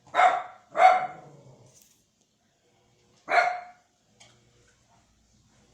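Dog barking: three loud, short barks, the first two in quick succession and the third about two and a half seconds later.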